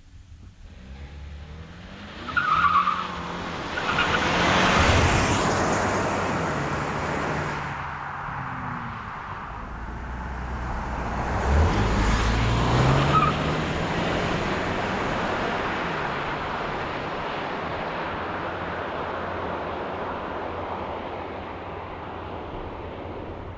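The 2021 Ford Escape ST-Line's 2.0-litre turbo-petrol four-cylinder accelerating hard from a standstill, with a brief tyre squeal at launch as the front wheels spin. The engine pitch climbs, drops near the eight-second mark as the automatic upshifts, climbs again, then settles into a steady drone at speed.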